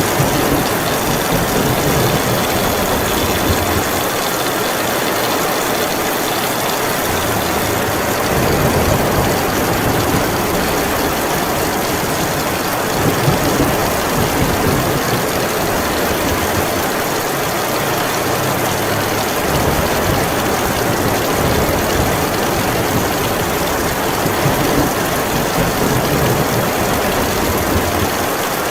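Heavy rain falling in a steady, loud hiss, with low rumbles of thunder swelling and fading a few times.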